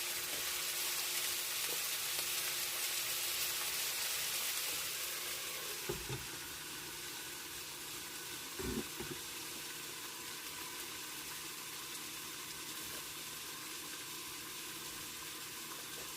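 Pork pieces frying in a covered pan, a steady sizzle that eases off a little about five seconds in. Two short knocks, about six and nine seconds in.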